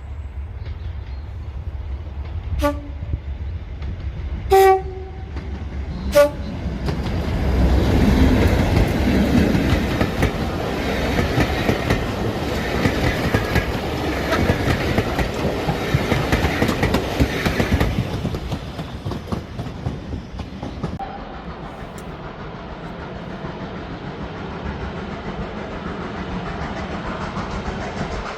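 A train gives three short toots on its horn or whistle, then passes close by with a loud rumble of wheels on rail lasting about ten seconds, easing to a quieter running clatter.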